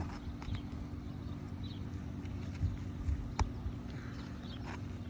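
A roofing pry tool working under brittle asphalt shingles to release their nails: scattered knocks and clicks, with one sharper knock about three and a half seconds in.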